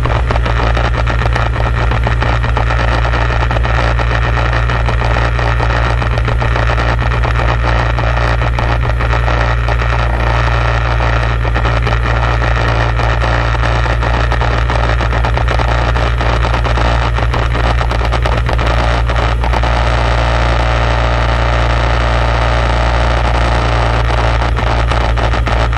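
A motor engine running steadily under load, loud and constant, with a low hum and frequent small crackles over it.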